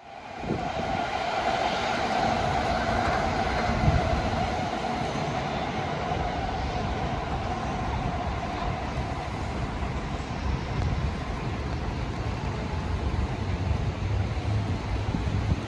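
Electric commuter train running past on an elevated line, a whine that fades over the first several seconds above a steady rumble of wheels on rails.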